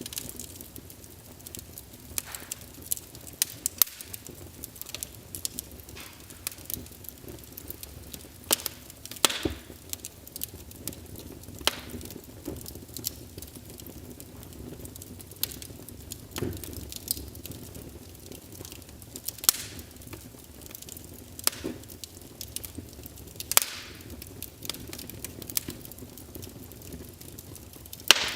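Wood fire burning in a fireplace: a steady low rush of flames with irregular sharp crackles and pops from the logs, a few louder snaps scattered through.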